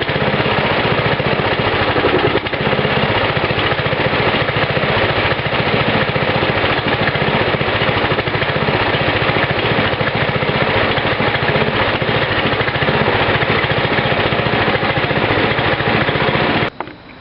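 Briggs & Stratton engine of a Craftsman 33-inch mower running steadily, with a fast even firing pulse, its carburetor freshly cleaned; it runs pretty good. The sound stops abruptly near the end.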